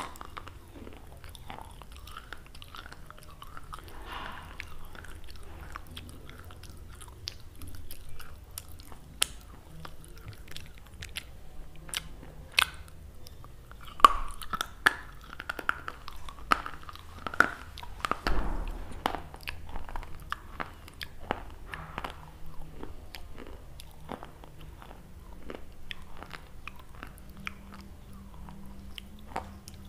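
Close-miked crunching and chewing of a crisp biscuit, with many small sharp crackles that come thickest and loudest around the middle.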